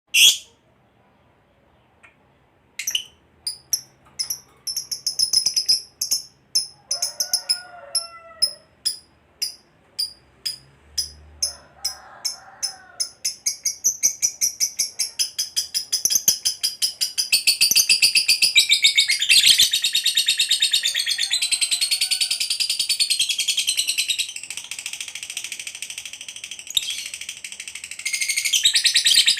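Lovebird calling: a single loud call, then after a short pause sharp high chirps repeated about twice a second that quicken and build from about 17 seconds in into a long, unbroken rapid chatter, the 'ngekek panjang' song prized in fighter lovebirds.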